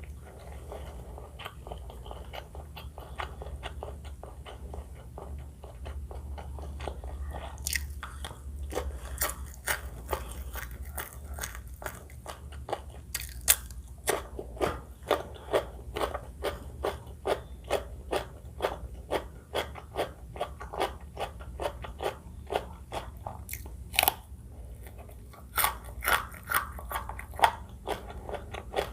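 A person chewing crunchy food right at the microphone, softly at first, then from about eight seconds in a steady run of sharp, crisp crunches at about two a second.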